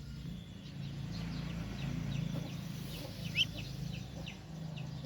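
Ducklings peeping: a scatter of short, high chirps that fall in pitch, over a low steady hum.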